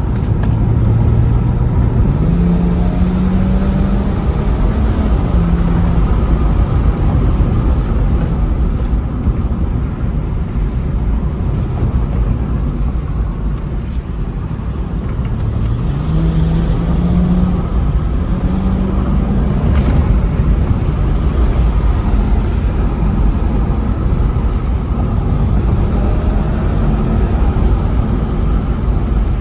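BMW 335i's N54 twin-turbo inline-six, fitted with aftermarket downpipes, pulling through the gears: the engine note climbs, drops back and climbs again several times under heavy road and wind rumble.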